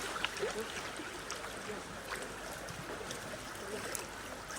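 River water rushing and lapping around a bamboo raft drifting with the current, a steady wash with scattered faint clicks.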